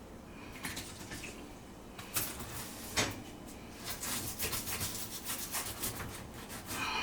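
Hand scrubbing and wiping inside a filthy dishwasher. It is quieter at first, then gives irregular rubbing strokes from about two seconds in.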